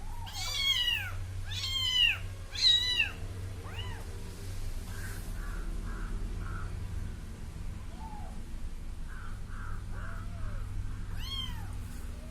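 Kitten meowing: three loud, high calls in quick succession in the first three seconds, then fainter ones spaced out, and one more loud meow near the end, over a steady low hum.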